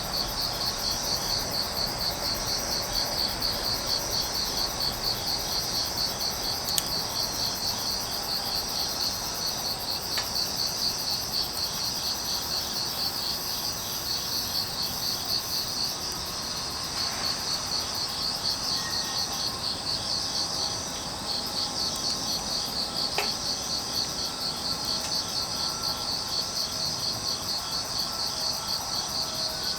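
Grass insects, crickets, chirping steadily in fast pulsing trills, with a few sharp crackles from a burning-down wood fire.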